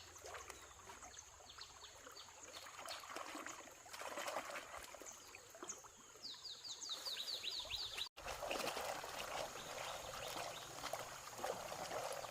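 Water trickling under a steady high insect trill, with a quick run of about eight high descending chirps about two-thirds of the way through.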